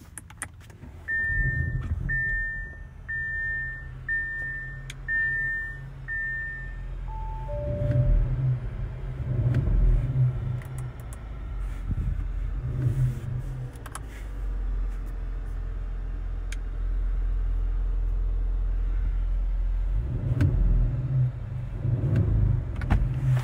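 2022 Audi SQ5 Sportback's turbocharged V6 starting up about a second in, with six short high electronic beeps about once a second and then a falling two-note chime. The engine is blipped through several revs, settles into a steady idle, and is revved again near the end.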